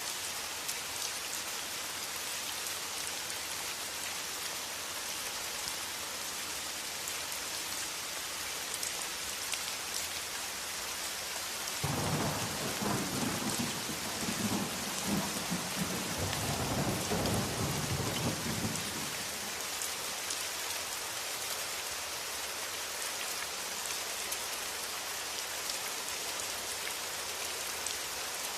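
Steady rain falling, with a roll of thunder that starts suddenly about twelve seconds in and rumbles low for about seven seconds before fading back under the rain.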